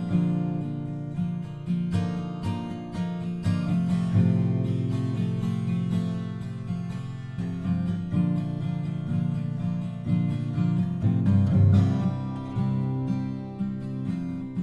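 Acoustic guitar music: plucked notes and chords ringing into one another at a steady moderate level.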